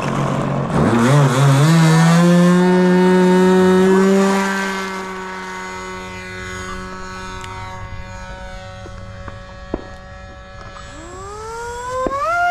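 Radio-controlled airplane's motor and propeller throttling up with a rising whine about a second in, running loud at full power for a few seconds, then holding quieter and steady. Near the end the whine rises sharply in pitch again as the throttle goes up.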